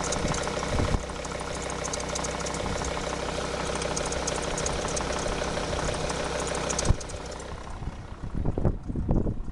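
Volvo S60 D5 five-cylinder diesel engine idling with a fine, even ticking on top, a noise that the owner puts down to the auxiliary belt. The engine sound cuts off suddenly about seven seconds in, and gusts of wind on the microphone follow.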